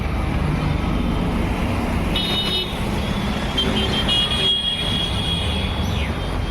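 Road traffic running steadily, with a high-pitched vehicle horn honking twice: briefly about two seconds in, then for nearly two seconds from about three and a half seconds in.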